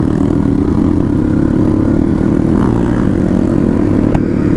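Dirt bike engine running steadily under way, with one sharp click about four seconds in.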